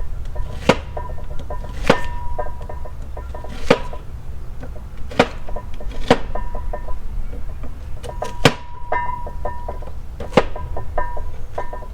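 A chiming melody of short, high notes runs throughout, while a kitchen knife strikes a cutting board about seven times at irregular intervals, rough-chopping vegetables.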